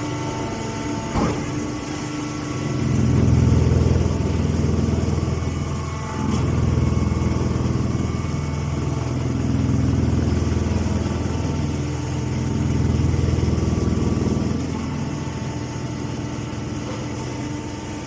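Mini hay baler machine running, its motor hum rising and falling in several long surges a few seconds apart as it works, with a sharp click about a second in.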